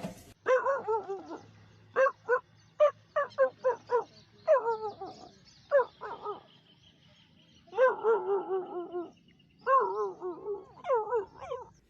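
An animal making a series of short, pitched whining calls that waver up and down, with two longer warbling runs in the second half.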